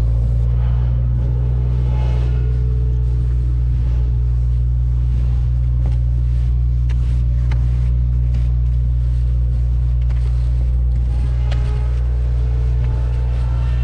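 2019 Subaru WRX driving: a steady, loud low drone of engine and road noise, with faint clicks and knocks over it.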